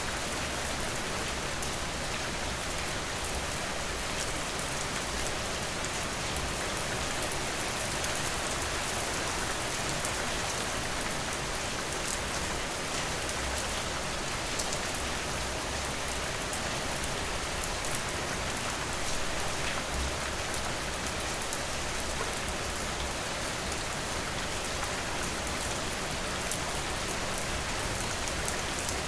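Steady rain falling: an even hiss of rain with many small, sharp drop ticks scattered through it, holding at a constant level.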